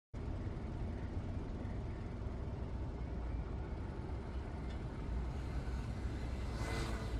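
Road vehicle driving: a steady low rumble of engine and road noise, with a brief hiss near the end.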